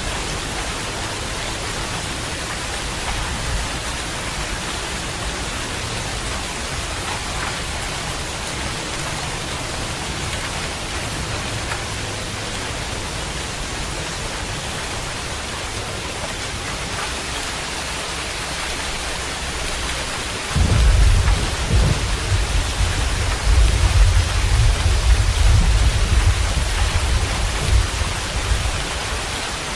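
Steady rain falling, an even hiss. About two-thirds of the way in, a deep rumble of thunder starts suddenly and rolls on for about eight seconds before fading back under the rain.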